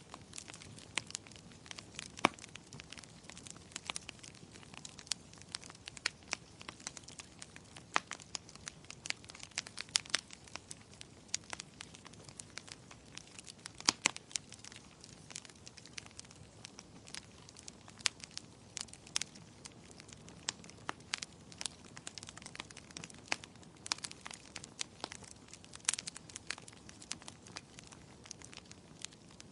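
Wood fire crackling, with irregular sharp pops and snaps over a soft hiss of flames.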